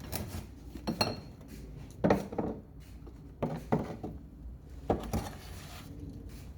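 Hard household items being shifted around inside a cupboard, clinking and knocking against each other in about six separate knocks.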